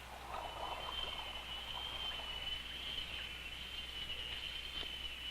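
Tropical rainforest ambience with a steady high-pitched animal drone that sets in about half a second in and holds at one pitch with a slight waver.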